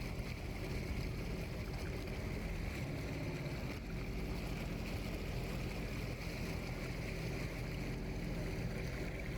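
Low, steady outdoor ambience of wind and water noise, with no distinct events.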